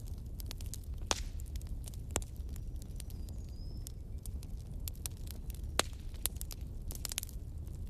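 Bonfire burning: irregular sharp crackles and pops of burning wood over a steady low rumble of the flames, with a faint brief whistle about three seconds in.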